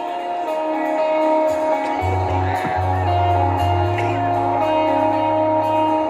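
Live rock band playing an instrumental passage: guitar chords ringing over held notes, with a low bass line coming in about two seconds in.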